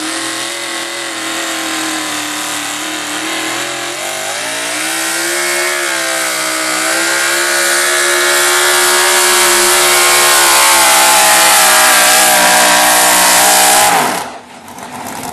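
Super stock 4x4 pulling truck's engine at full throttle under the load of the sled, running steadily and growing louder. About fourteen seconds in, the throttle closes and the engine falls away sharply, its pitch dropping.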